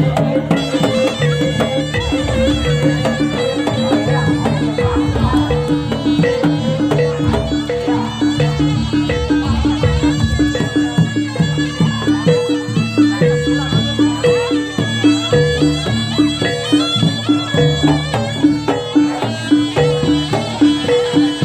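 Loud jaranan ensemble music: a slompret, the Javanese double-reed shawm, plays a reedy melody over a steady repeating pulse of gong-chimes and drums.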